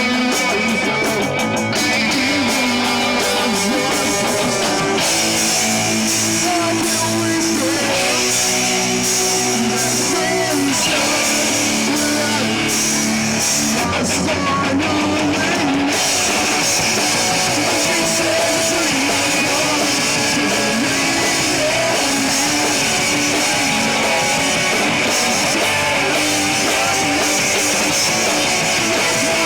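Live rock band playing: electric guitar over bass and a drum kit with cymbals, loud and continuous.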